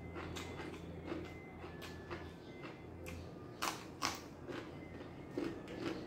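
Close-up chewing and crunching of raw vegetables and grilled dried beef eaten by hand, with scattered crisp crunches, the loudest two about three and a half and four seconds in and more near the end. A low steady hum runs under the first half and stops about three seconds in.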